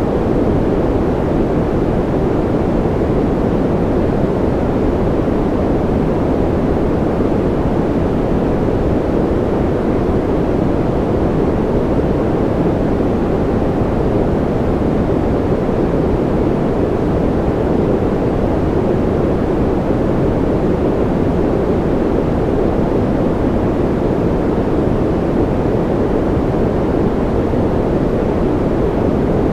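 Continuous white noise for sleep: a steady, unchanging hiss, heavier in the low end than the highs.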